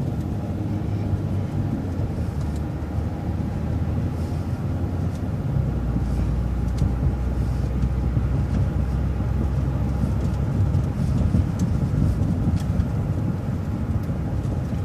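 City transit bus driving along, heard from on board: a steady low engine drone with road noise. The deepest part of the drone grows stronger about five and a half seconds in.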